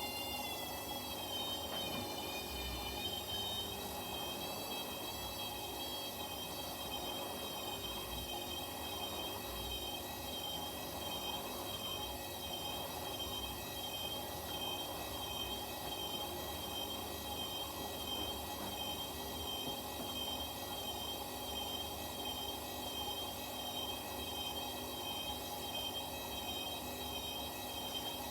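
Front-loading washing machine in its spin, the drum motor giving a high whine that rises in pitch over the first second or two and then holds steady with a slight wobble at speed.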